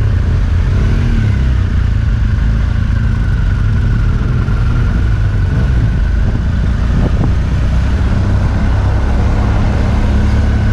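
Motorcycle running steadily on the road: a loud, even low engine rumble with a faint steady whine above it.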